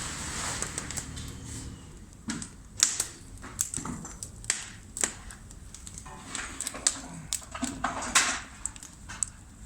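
Irregular sharp clicks and knocks, a few each second, over a faint background hiss.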